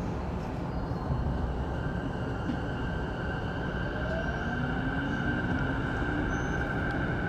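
Saikyo Line electric commuter train heard from inside the car, running with a steady rumble as it pulls away. From about halfway through, the traction motors' whine rises slowly in pitch as the train speeds up.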